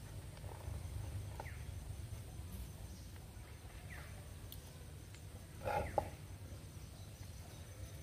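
Faint outdoor background with a low steady rumble, a few short faint bird chirps, and one louder short bird call, likely from a domestic fowl, about six seconds in.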